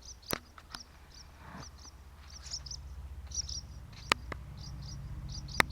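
Barn swallows giving short, repeated high chirping calls. A few sharp knocks are heard, and a low steady hum builds from about two seconds in.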